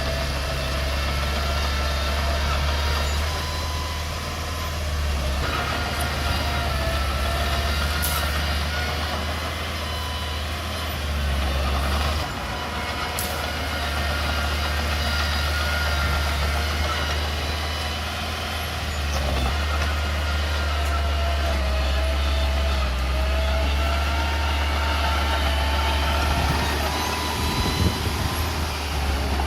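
Small Komatsu bulldozer's diesel engine running steadily under load, with a fainter whine that wavers slowly up and down over it.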